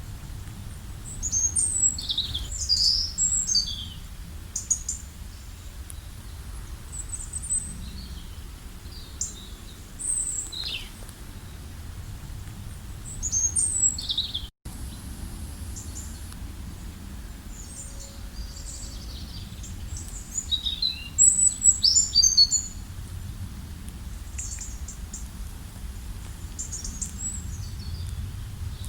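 Several small songbirds chirping and singing in scattered bursts of short, high, quick notes, busiest a little past two-thirds of the way through, over a steady low rumble. The sound drops out for an instant about halfway through.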